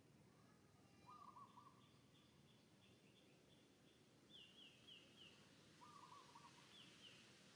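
Faint outdoor birdsong over quiet background noise: a quick low phrase of several notes heard twice, about a second in and again about six seconds in, and short high falling notes in runs of three or four.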